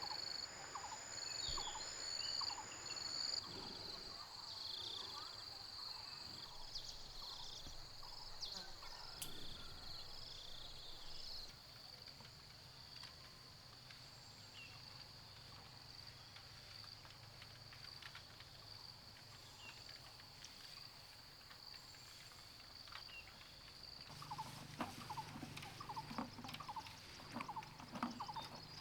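Forest ambience: a steady high-pitched insect drone with short bird calls, which come thicker near the end.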